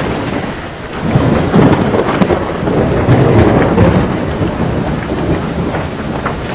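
Storm of strong gusting wind and heavy rain, a steady rushing noise. It swells into a strong gust about a second in and eases after about four seconds.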